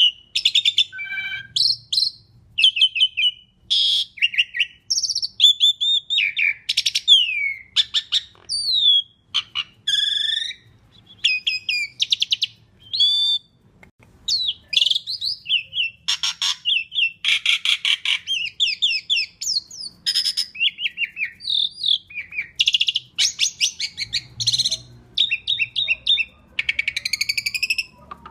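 Asian pied starling singing continuously: a rapid, varied stream of whistles, rattles and chattering phrases, with notes that slide up and down in pitch.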